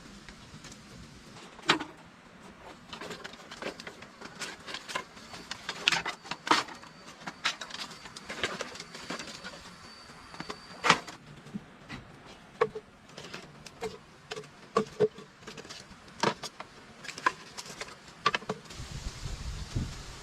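A series of irregular knocks and clicks, a few of them sharp and loud, as of something being handled or struck by hand. A faint, high, steady whine runs under them for a few seconds midway, and a low rumble comes in near the end.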